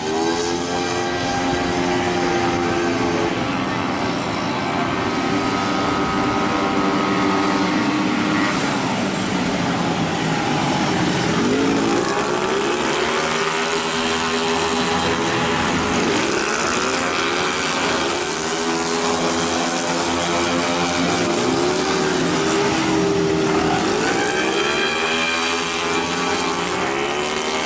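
Several racing 131cc automatic scooters running at high revs on a street circuit. Their engine notes are a high, buzzy whine that keeps swooping down in pitch and climbing back up as the bikes brake, corner and pass.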